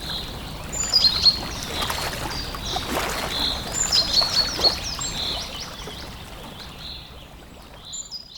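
Birds chirping and singing: many short high whistled notes, some gliding, over a soft background hiss, fading out near the end.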